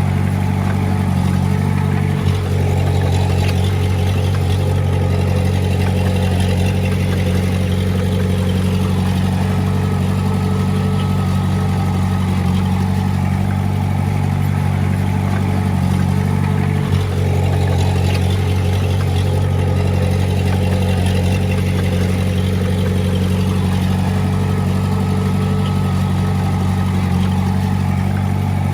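Diesel engine of heavy earthmoving equipment running steadily under work, with two brief dips, about two seconds in and again near the middle.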